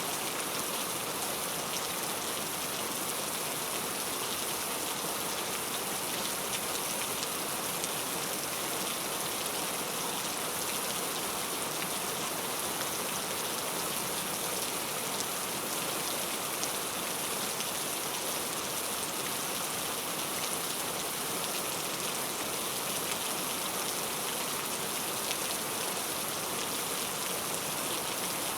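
Heavy rain falling steadily: a dense, even hiss of countless drops, strongest in the treble, with no change in strength.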